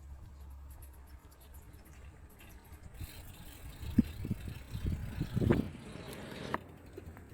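Walking footsteps with low thuds, and a steady hiss that comes in about three seconds in and cuts off sharply about three and a half seconds later.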